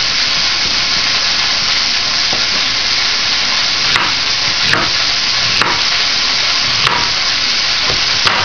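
Chopped vegetables sizzling in a soup pot, a steady hiss, with five sharp clicks in the second half.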